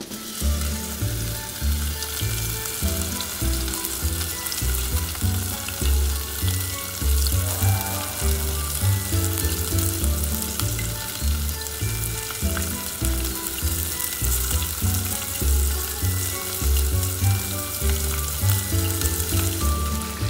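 Flour-dredged fish frying in hot oil in a pot: a dense sizzle that starts abruptly as the fish goes in and keeps up, with background music underneath.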